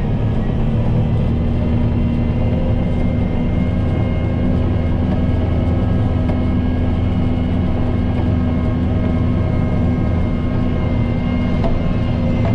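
Kubota M7060 tractor's four-cylinder diesel engine running at a steady pitch.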